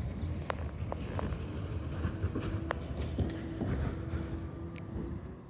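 McNeillus ZR automated side-loader garbage truck running, its engine rumbling steadily under scattered clanks and knocks, with a faint hum coming and going.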